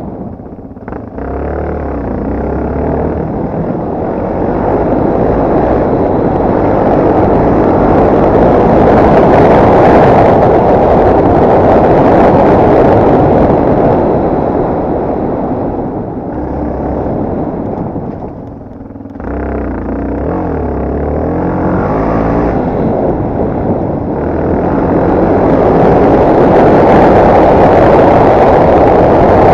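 Yamaha TT250R's air-cooled single-cylinder four-stroke engine running hard while the bike is ridden, with a dense rushing noise over it. The engine note drops off briefly about a second in and again around nineteen seconds, then picks up again.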